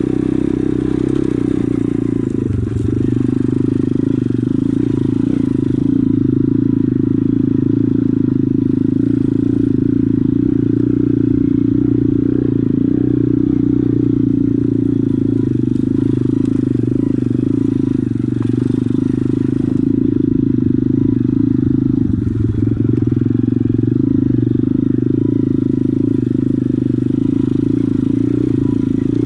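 Pit bike engine running at fairly steady revs, with brief changes in its note about two and a half seconds in and again around twenty-two seconds.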